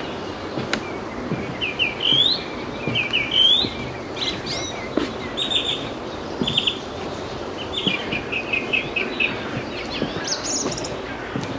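Small songbirds singing: two rising whistled notes, then runs of short repeated chirps and high notes, over a steady background noise.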